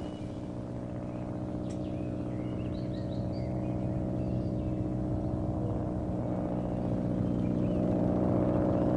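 Piston engine of an early propeller monoplane droning steadily and growing slowly louder, as of an aircraft approaching in flight. A few faint bird chirps sound about two to four seconds in.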